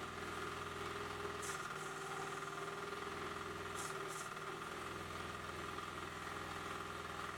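Diesel engine of a Hydraform M7MI soil interlocking block machine running steadily, with a constant steady whine over it. Brief hisses come about a second and a half in and again, doubled, around four seconds in.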